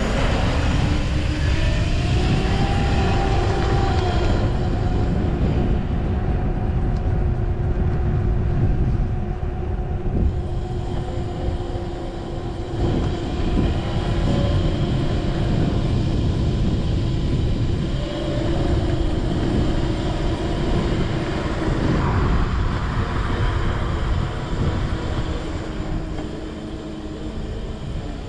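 Razor MX-series electric dirt bike motor whining as it rides. Its pitch rises over the first few seconds as the bike speeds up, then holds steady. Underneath is a heavy low rumble of wind and ground noise.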